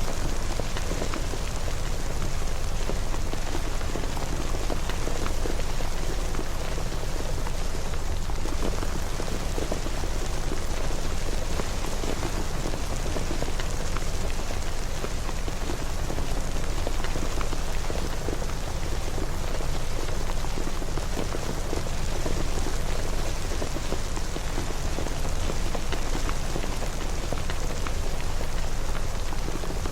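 Steady rain falling, a continuous wash with many fine drop patters.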